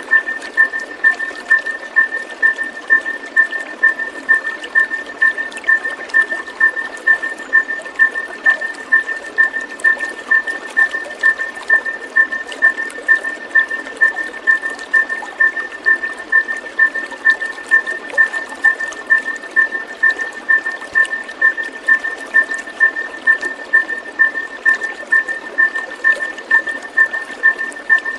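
Continuous rush of flowing water with a single high note repeating at a fixed pitch, pulsing evenly about twice a second throughout.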